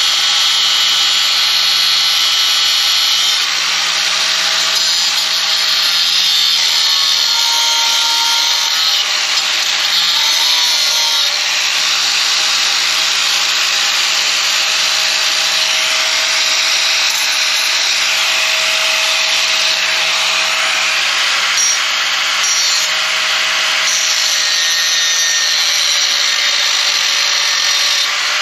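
Power tool cutting through steel exhaust pipe, a loud steady cutting noise over the motor's hum.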